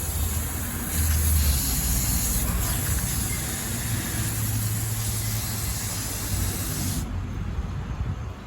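Steady hissing spray from cleaning the RC car, cutting off suddenly about seven seconds in.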